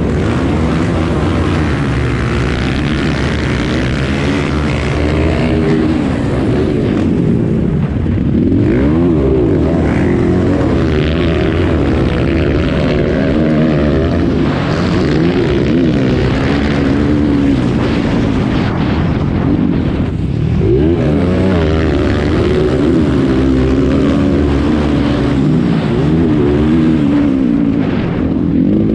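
Dirt bike engine revving, its pitch climbing and dropping over and over as the throttle is opened and shut, over a steady rushing noise.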